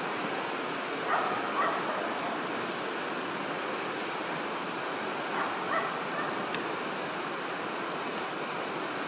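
Wood campfire burning, with scattered sharp crackles and pops over a steady rushing hiss. Brief animal calls stand out about a second in and again about five and a half seconds in.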